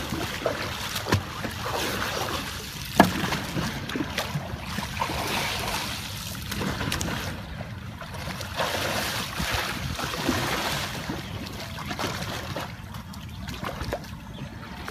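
Water splashing and sloshing around a Romany sea kayak as it capsizes and is rolled back upright with a wooden Greenland stick paddle, using a sweep roll without an extended paddle. A sharp smack of water about three seconds in.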